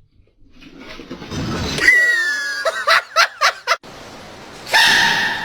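A person laughing: a high squeal that glides down, then a quick run of about five short laughing pulses. A loud, high, held cry starts near the end.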